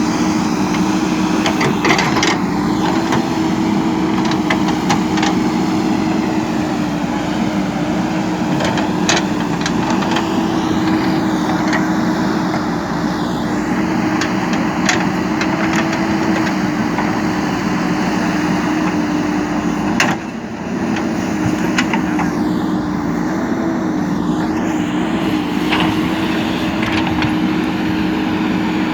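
JCB 3DX backhoe loader's diesel engine running steadily under work, with occasional short clanks and knocks from the machine. The engine dips briefly about two-thirds of the way through.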